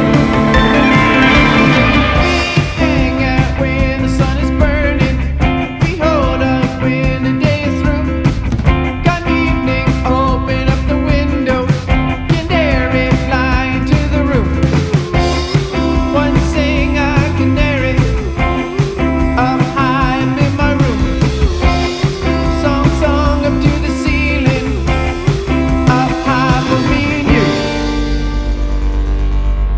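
Rock band music with guitar over a steady beat, a fuller passage that thins out near the end.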